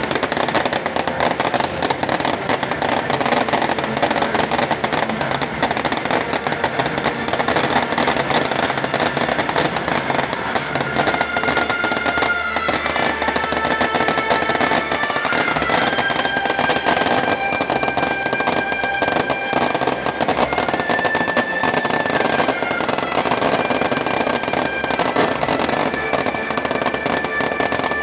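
Large bonfire crackling steadily with a dense stream of pops, with music playing alongside; held musical notes come in about halfway through.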